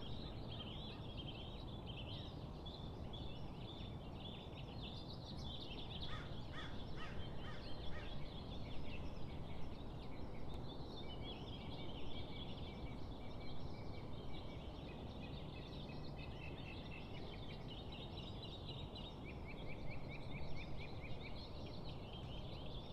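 Small birds chirping and twittering continuously, many short high calls overlapping, over a low steady outdoor rumble.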